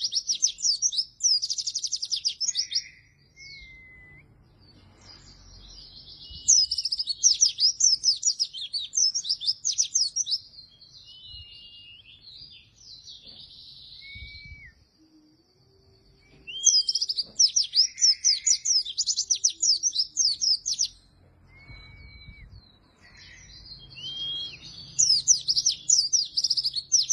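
White-eye (pleci) singing in fast, high, chattering phrases of a few seconds each, about four of them, with short thin whistled notes in the pauses between.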